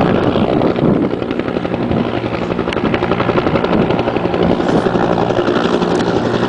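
Helicopter rotors beating in a loud, rapid, steady chop over the low engine hum of a helicopter in flight.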